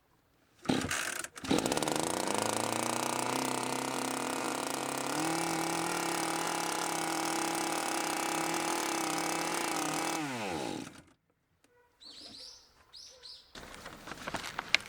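Shindaiwa E1027TS two-stroke chainsaw engine starting and running. Its speed rises a little and steps up about five seconds in, then holds steady. It is shut off and winds down about ten seconds in. Birds chirp briefly afterwards.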